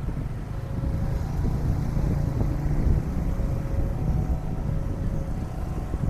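Train running past with a continuous low rumble, with faint steady tones coming and going above it.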